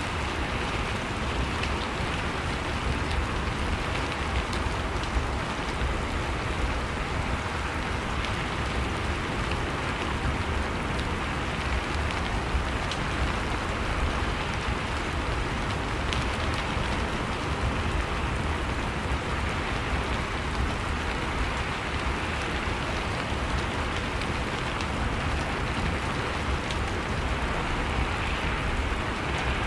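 Steady rain falling, with fine drops ticking on a surface over a constant low rumble; no single clap of thunder stands out.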